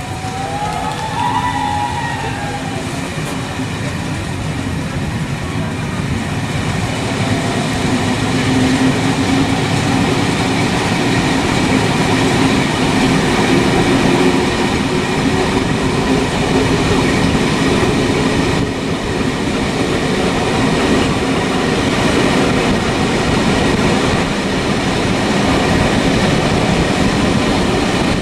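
A moving train running on rails: a steady, loud rumble that builds over the first several seconds and then holds.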